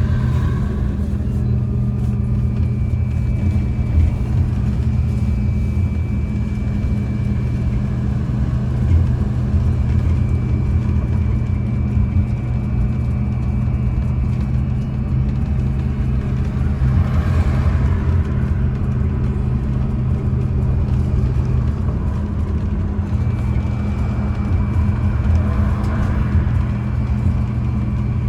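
MAZ-203T trolleybus running, heard from inside the passenger cabin: a steady low hum with road noise, and a thin high whine that drops out for a few seconds twice and comes back.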